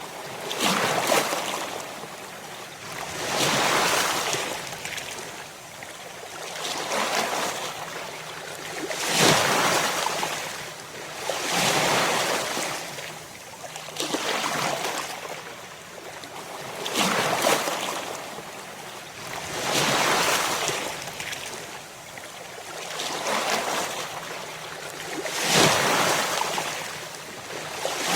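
Ocean waves breaking on a shore. The surf surges and falls away in a steady rhythm, about once every three seconds.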